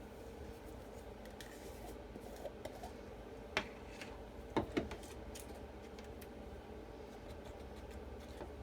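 Light handling of craft tools and supplies: a few sharp clicks and taps, loudest about three and a half and then twice near four and a half seconds in, over a steady low hum.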